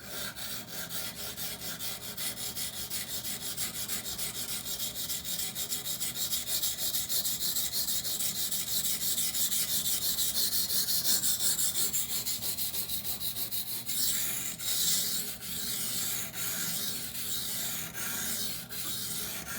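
A steel knife blade in CPM-20CV is stroked back and forth over a coarse 220-grit Norton water stone, giving a gritty scraping at about three strokes a second. About fourteen seconds in, the strokes turn slower and less even.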